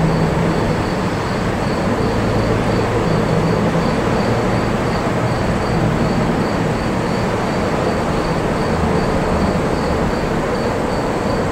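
Norfolk Southern diesel-electric freight locomotive and double-stack intermodal train, a steady heavy rumble of engine drone and rolling cars.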